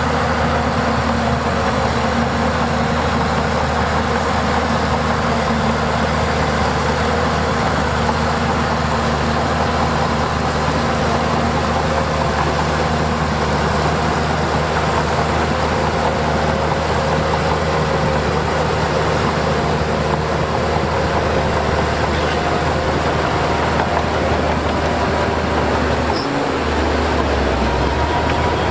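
Heavy diesel earthmoving machinery running steadily, an engine drone with a constant low hum.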